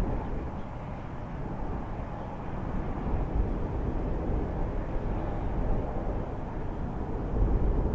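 A low, steady rumble with no clear pitch, swelling slightly near the end.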